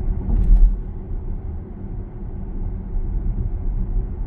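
Low, steady road and tyre rumble heard inside the cabin of a Zeekr 7X electric car on the move, with no engine note, and a couple of sharp knocks about half a second in.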